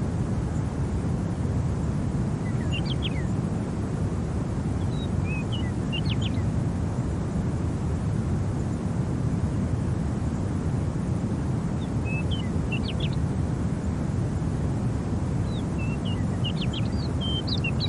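Steady low rumble of wind, with small birds chirping in short bursts of a few high notes four times, most busily near the end.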